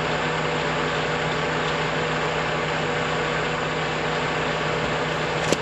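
Engine idling steadily with an even hum, and a short click near the end.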